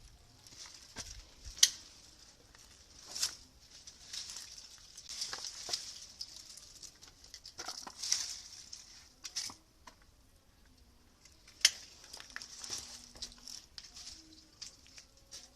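Rustling of leaves and twigs with scattered crackles and a few sharp clicks, as of pruning shears cutting; the three loudest clicks come near the start, about three seconds in, and past the middle.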